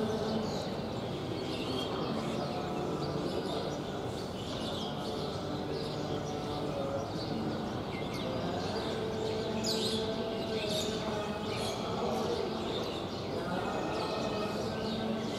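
Small birds chirping, many short high calls, over a soft, steady murmur of low background sound.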